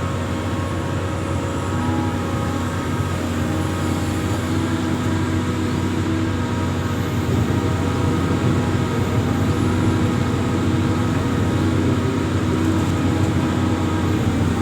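Diesel engine of an amphibious excavator running steadily under work, a little louder from about halfway through.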